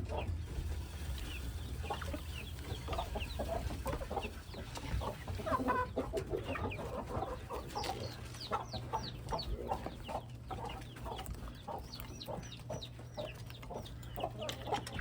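A flock of backyard chickens clucking, with runs of short, high, falling peeps about halfway through and again near the end.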